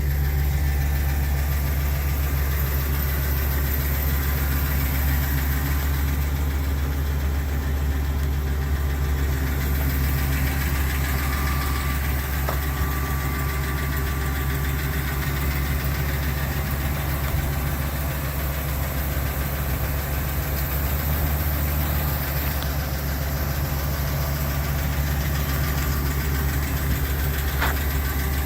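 Ford E-450's 6.8-litre V10 gasoline engine idling steadily, a low, even hum.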